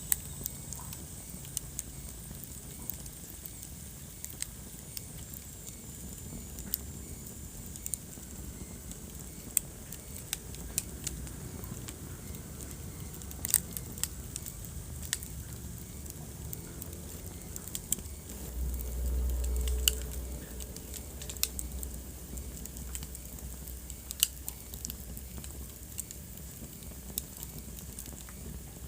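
Wood fire crackling in a fireplace: irregular sharp pops and snaps over a low steady rumble of burning, the rumble swelling for about two seconds around two-thirds of the way through.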